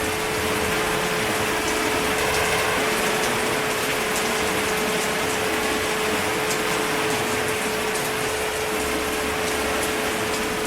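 Steady heavy rain: an even rushing hiss with faint patters, and a thin steady hum running through it.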